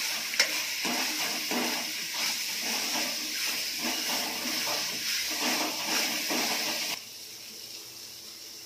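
Masala and roasted small prawns sizzling in a kadhai while a metal ladle stirs and scrapes through them in quick repeated strokes, with a sharp clink of ladle on pan just after the start. The stirring stops about seven seconds in, leaving a quieter sizzle.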